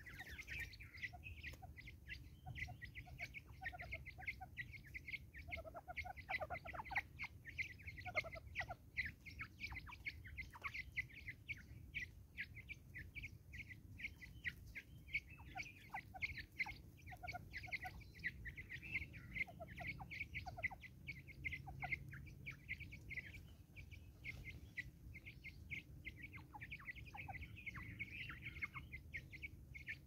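Birds chirping: a steady stream of short, high chirps, with lower, softer calls in a few stretches.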